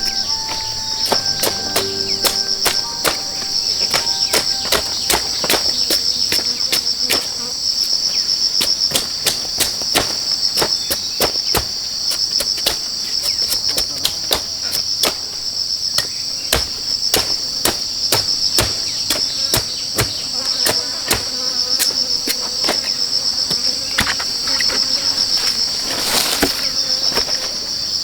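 Steady, high, pulsing buzz of an insect chorus, with many sharp knocks of work on wood or bamboo over it, several a second at an uneven pace.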